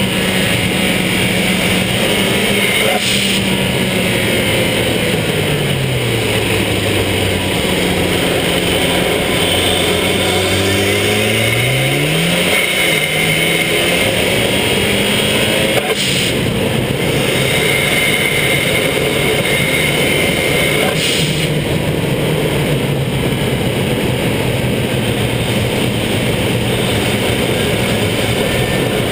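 Fiat Punto GT's turbocharged four-cylinder engine pulling the car along a wet road, heard from outside the car with a constant hiss of tyres on wet tarmac and wind. The engine's pitch falls as the car slows, about four to seven seconds in, stays low, then rises again at about twelve seconds as it accelerates. A few brief sharp sounds come at about three, sixteen and twenty-one seconds.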